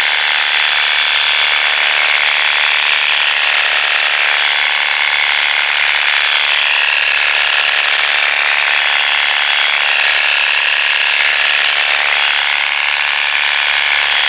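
Worx WG633 Hydroshot cordless pressure washer running steadily, its pump and brushless motor rattling along with the hiss of the spray, as soap from the bottle attachment is sprayed through the long lance.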